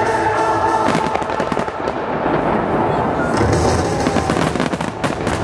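A fireworks display with many aerial shells bursting at once: dense, rapid crackling and popping, with heavier deep booms about three and a half seconds in.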